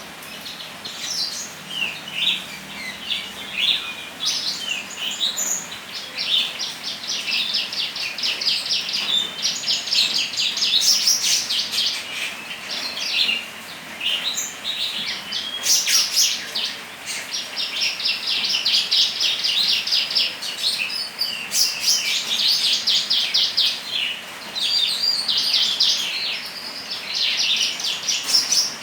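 A songbird singing continuously in long runs of fast, high chattering trills broken by short pauses: the bird is in full, energetic song ('gacor').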